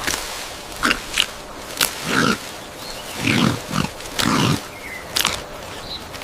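An animal giving several short low grunts, mixed with sharp clicks.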